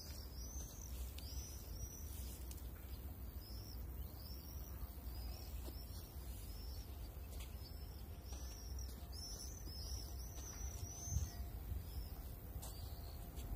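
A small bird calling in series of short, high, arched chirps, busiest a little past the middle, over a steady low rumble.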